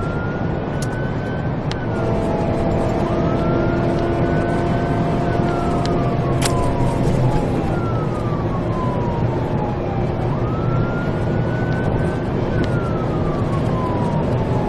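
Police car siren on a slow wail, its pitch rising and falling in long sweeps, over the steady road and engine noise of a patrol car in a high-speed pursuit.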